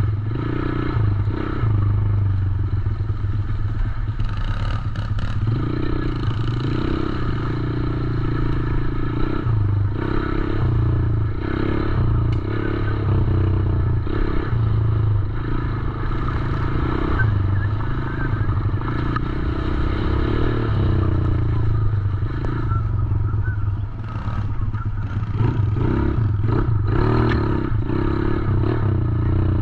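110cc dirt bike engine running under riding, the throttle opening and closing so the engine note swells and dips every second or two.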